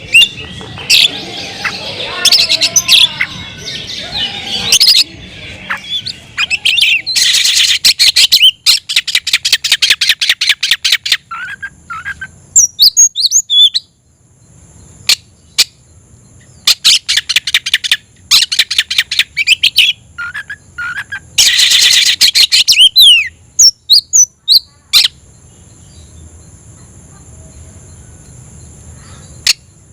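Oriental magpie-robin (kacer) singing: bursts of fast, rattling trills of repeated high notes, each one to two seconds long, broken by short whistled phrases. From about the middle onward a steady high cricket chirring runs underneath.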